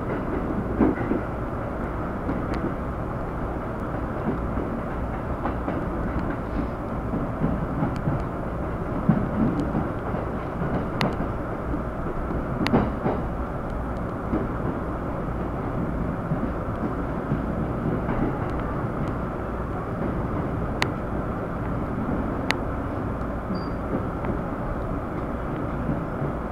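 Steady rumble of a train, with scattered sharp clicks and knocks.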